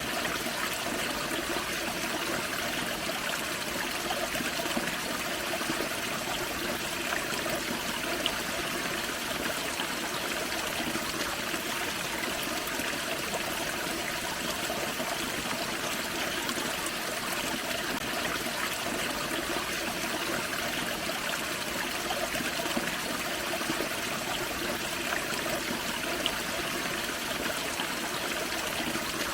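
Small forest waterfall on a creek: water splashing and trickling over rocks in a steady rush.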